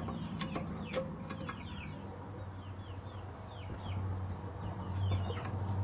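Birds chirping repeatedly in short falling calls, with scattered sharp clicks of tools on metal and a low steady hum that swells in the second half.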